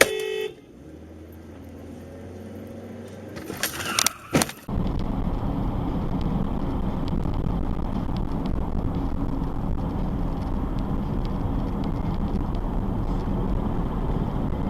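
A short pitched beep like a car horn, then a cluster of loud impacts about four seconds in, typical of a collision, followed by a loud steady low rumble of road and wind noise from a moving vehicle.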